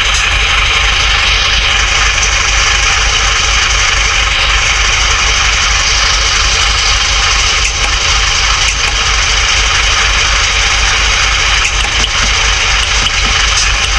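Truck engine idling steadily, with an even low throb.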